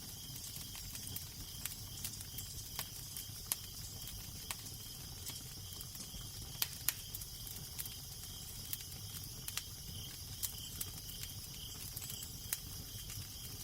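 Crackling fire with irregular sharp pops and snaps over a steady low rumble and hiss.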